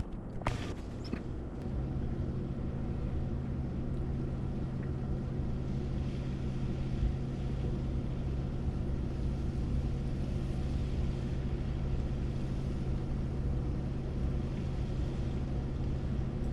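Pickup truck engine idling steadily, heard from inside the cab, with a couple of clicks about half a second and a second in.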